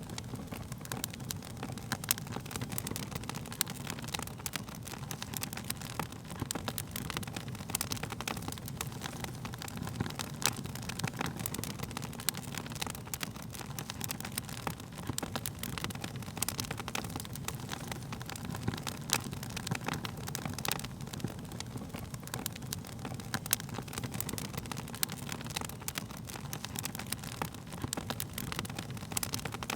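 Wood fire burning with a steady low rumble of flames and frequent sharp, irregular crackles and pops of burning wood.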